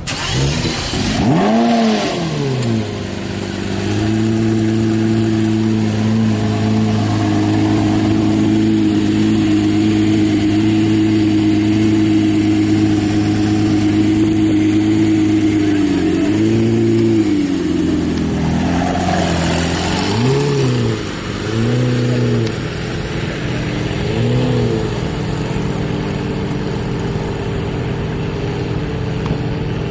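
Lamborghini Murciélago LP640's 6.5-litre V12 revving. One rise and fall of revs early on, then a steady hold for about ten seconds. After a dip come three short blips of the throttle, and it then settles to a steady idle.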